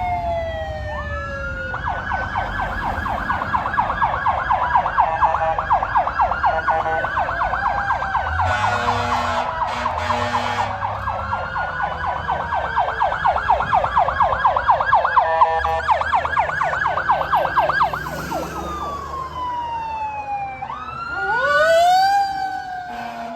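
Emergency vehicle sirens of a fire engine and ambulance responding. A falling wail gives way to a long, fast yelp, which winds back down to a wail near the end as a second siren rises over it.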